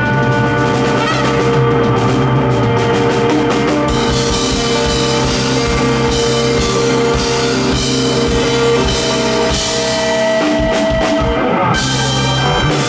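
Live rock band playing an instrumental outro: drum kit and guitar over held chords. The drums grow busier and brighter about four seconds in.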